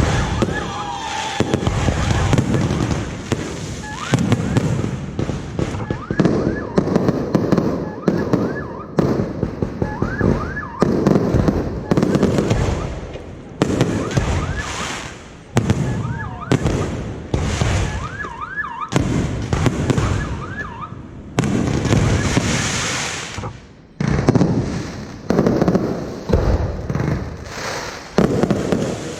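Aerial fireworks display: shells bursting one after another in quick succession, deep booms with crackling tails, mixed with short rising whistles from whistling shells.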